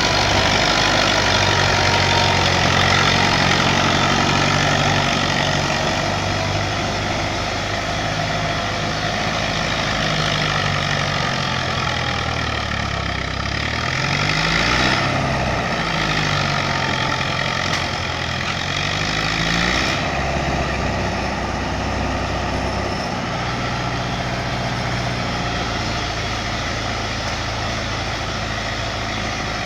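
Tractor engine running hard under load in mud. Its pitch rises and falls with revving in the middle, then settles back to a steady note.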